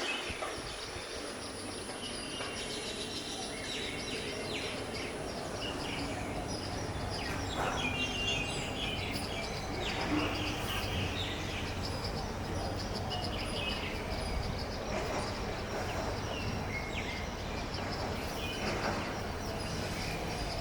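Parrots calling in short, scattered chirps and squawks over a steady low background rumble.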